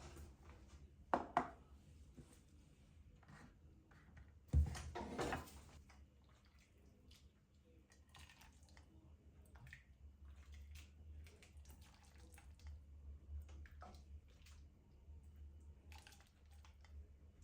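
Two sharp knocks, about a second and about four and a half seconds in, then faint scattered clicks and taps over a low steady hum.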